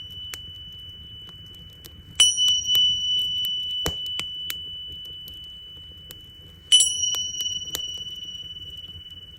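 Tingsha cymbals struck twice, about two seconds in and again near seven seconds. Each strike rings with a high, pure tone that fades slowly. Sharp crackles and pops from a wood fire run beneath.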